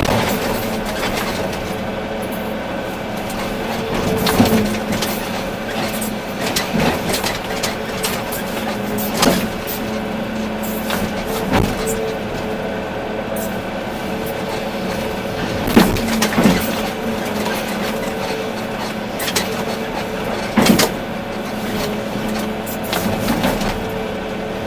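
Volvo EC380D excavator's diesel engine running steadily under work, with sharp metallic clanks every few seconds.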